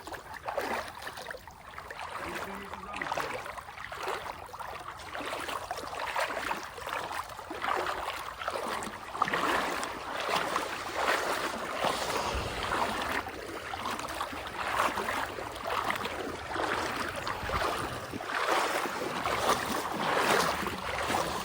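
Water rushing and splashing, a continuous rush broken by many small irregular splashes, like a shallow stream running over rocks.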